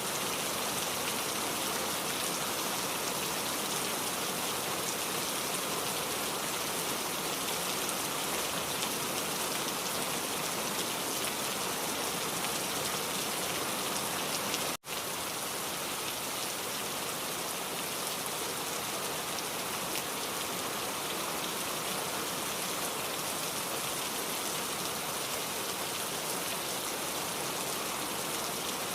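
Steady rain falling on a surface, an even hiss of drops. It cuts out for a split second about halfway through, then resumes unchanged.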